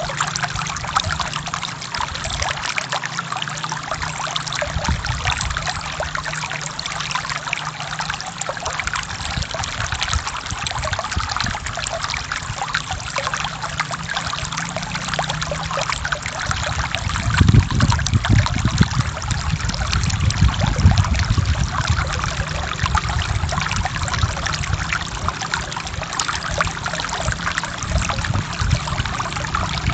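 Forest stream flowing steadily, water rushing and trickling over rocks, with a deeper low rumble swelling up a little past halfway.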